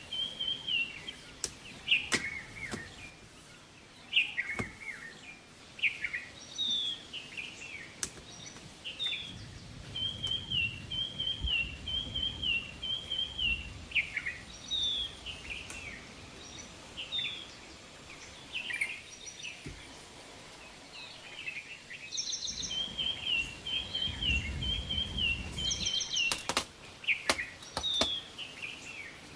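Birds calling: one keeps repeating a fast, stepped chirping phrase in runs, three times, while other short down-slurred whistled notes come and go. A few sharp clicks or knocks are heard between them.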